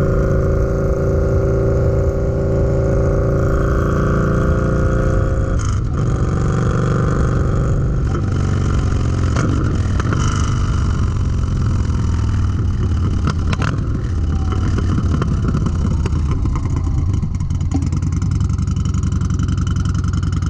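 Yamaha Bolt's air-cooled V-twin running through a Baron 4-inch slip-on muffler while riding. The engine holds a steady note, changes pitch about six and again about eight seconds in, then runs on steadily.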